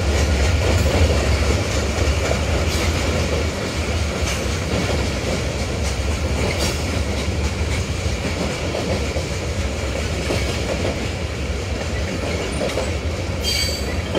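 Freight train of tank cars and boxcars rolling past at steady speed: a continuous deep rumble with the clickety-clack of wheels over rail joints, and a brief high wheel squeal near the end.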